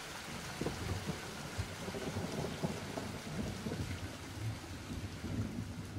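Steady rain hissing with low thunder rumbling through it in uneven swells.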